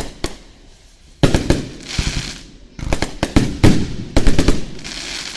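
Aerial fireworks going off close by: sharp bangs in quick rapid-fire clusters, about a second in, around three seconds and again near four seconds, with a rushing hiss between the volleys.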